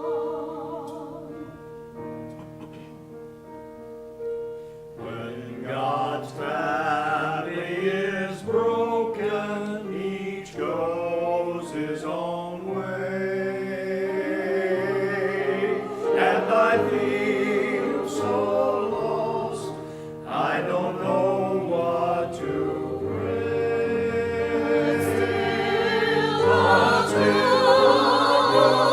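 Church choir singing with instrumental accompaniment. Held chords open the music, the voices come in about five seconds in, and the singing grows louder near the end.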